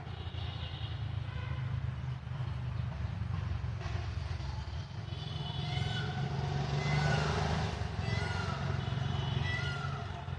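A steady low rumble of a passing vehicle that swells louder past the middle, with four short rising-and-falling calls over it in the second half, a little over a second apart.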